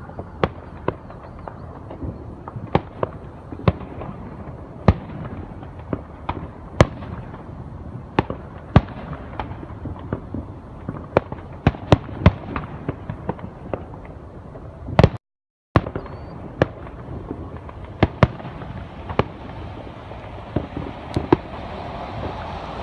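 Aerial fireworks display: irregular sharp bangs, roughly one or two a second, over a continuous background rumble. The sound drops out completely for about half a second, about two-thirds of the way through.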